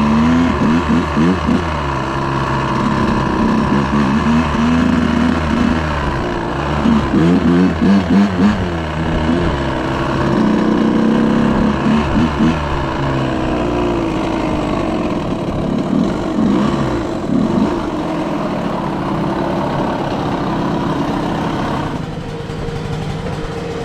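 Dirt bike engine running under way, its pitch rising and falling again and again with the throttle and gear changes, easing off near the end.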